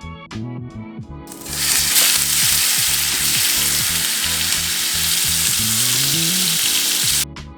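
Breaded fish fillets sizzling as they fry in hot oil, a loud steady sizzle that begins about a second in and cuts off suddenly near the end, over background music.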